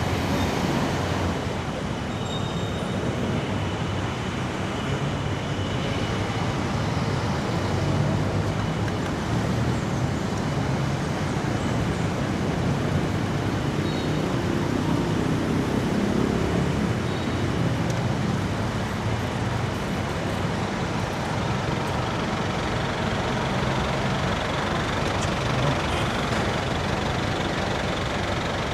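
Steady urban road traffic noise, with vehicle engines and tyres on the road, heard while riding a bicycle among the traffic.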